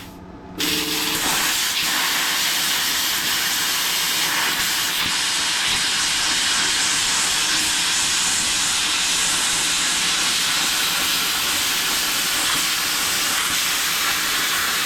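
Handheld plasma cutter cutting through metal plate: a steady, loud hiss of the arc and air jet, which starts about half a second in after a brief gap.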